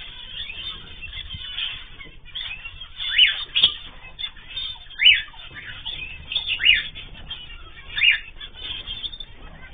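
A room of small cage birds, a mix of cockatiels, zebra finches and canaries, chirping and twittering together, with a louder sharp call standing out every second or two.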